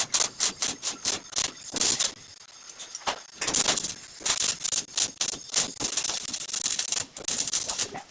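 Electric arc welding: an irregular crackling hiss in quick bursts, easing off about two seconds in, then picking up again into a denser crackle near the end.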